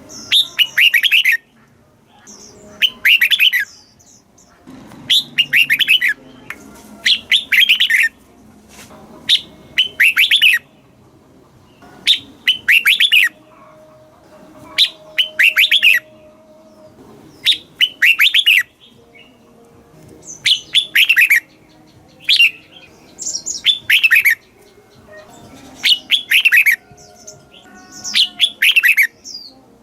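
Red-whiskered bulbul singing: short, loud song phrases of quick notes, repeated about every two seconds.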